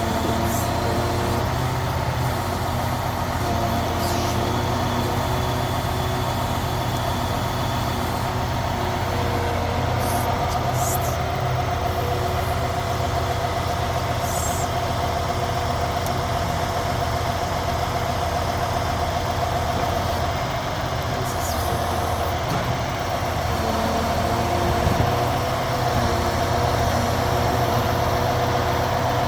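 A grab truck's diesel engine runs steadily while its hydraulic grab works, with a steady whine that swells and fades. A few short high clicks come through over it.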